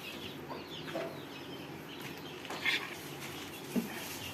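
Chickens clucking now and then, short separate calls over a faint steady background.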